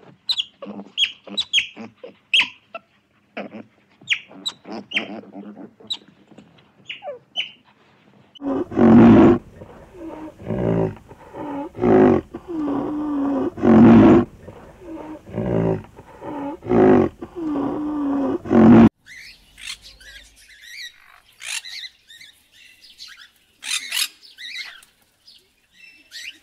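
Animal calls: quick high chirps, then a run of loud, pitched calls repeating about once a second for some ten seconds, then more scattered high chirps near the end.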